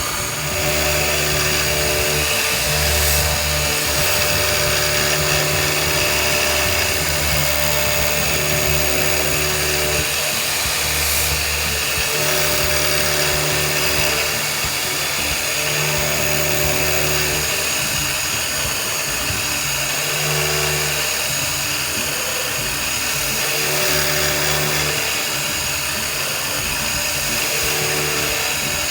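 CNC router spindle running steadily while milling POM (acetal) plastic, a high whine with lower tones that shift every few seconds.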